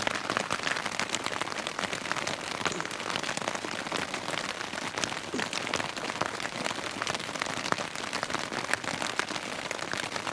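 Steady rain falling, heard as a dense run of individual drops hitting a surface.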